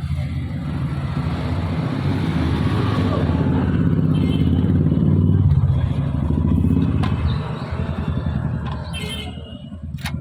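Low engine rumble of a motor vehicle, swelling to a peak about halfway through and then fading, with a couple of faint clicks near the end.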